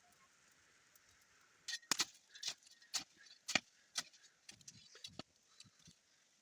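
A run of sharp knocks and clicks, about two a second, starting a little under two seconds in and stopping about five seconds in, over a faint steady hiss.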